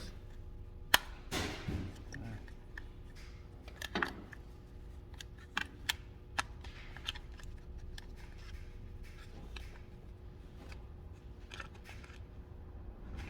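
Scattered sharp clicks and light knocks of a car door latch assembly and its parts being handled and fitted into the door, the sharpest click about a second in.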